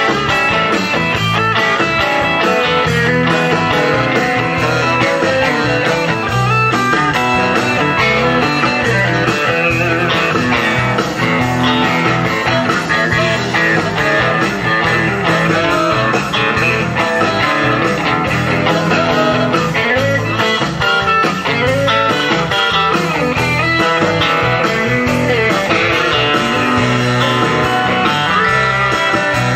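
Rock band playing an instrumental break with no vocals, electric guitar prominent over bass and drums.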